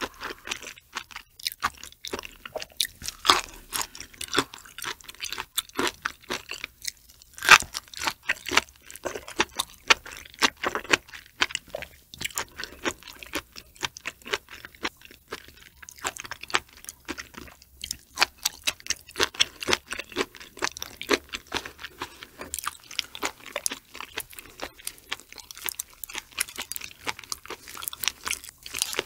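Close-miked mouth sounds of someone chewing raw shrimp with flying fish roe: a dense, irregular run of short clicks and crackles.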